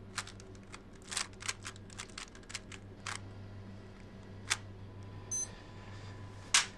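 A run of sharp mechanical clicks and taps, quick and close together for the first few seconds and then sparse. A brief high electronic beep comes near the end, followed by one loud click.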